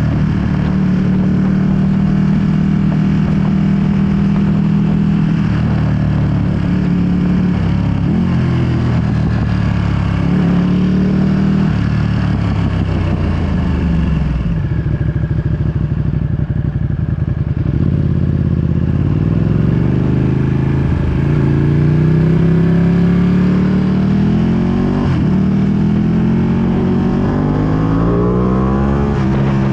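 2020 Ducati Panigale V2's V-twin engine through a full Akrapovic exhaust, under way. It holds a steady pitch, then falls away to a low, pulsing idle around the middle. Then it accelerates through several gears in a series of rising sweeps, with wind noise on the microphone throughout.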